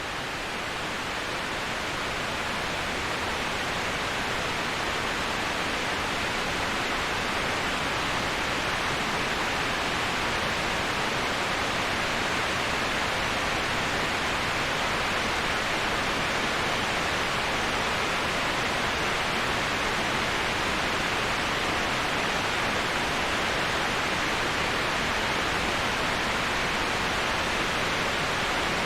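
Waterfall white noise: a steady, even rushing hiss with no distinct splashes or drops. It fades up over the first few seconds, then holds level.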